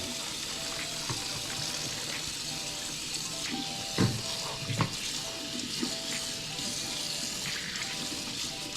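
Hot oil sizzling steadily in a frying pan as catfish pieces cook, with two dull knocks about four and five seconds in. Soft background music with a simple repeated melody plays underneath.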